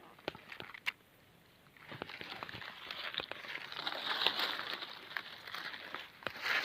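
Footsteps crunching and rustling through dry leaf litter. The sound is irregular and starts about two seconds in, after a near-quiet start with a few light clicks.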